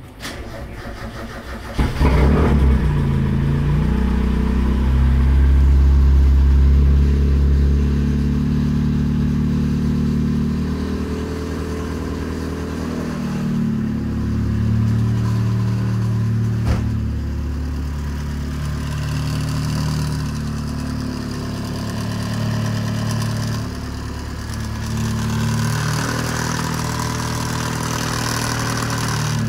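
Mazda NA Miata four-cylinder engine cranking and catching about two seconds in, then running on with a shift in engine speed around the middle and again near the end. Its hydraulic lash adjusters clatter like a diesel truck: the lifters were taken apart, cleaned with air and oil-primed rather than properly bled.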